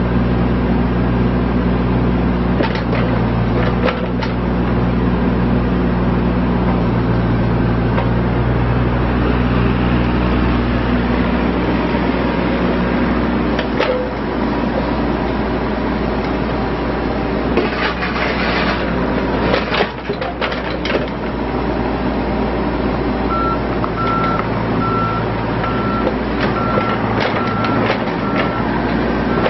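John Deere 27D mini excavator's diesel engine running under working load, its note shifting partway through, with metallic clanks from the tracks and hydraulic arm. Near the end a travel alarm starts beeping steadily, the sign that the machine is travelling on its rubber tracks.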